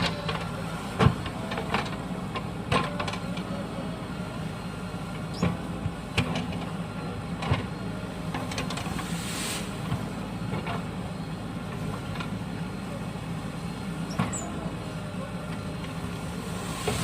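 Heavy diesel vehicle engine idling steadily, with scattered sharp knocks and clanks and two short hisses, one about halfway through and one near the end.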